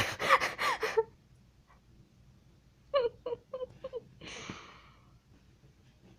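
A cat meowing: several drawn-out, bending meows in the first second, then a quick run of four or five short chirping meows about three seconds in, followed by a brief rustle.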